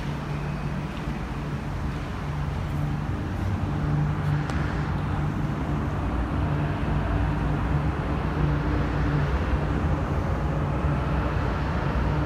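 MTR metro train running: a steady electric hum over rumble and hiss, growing louder about four seconds in.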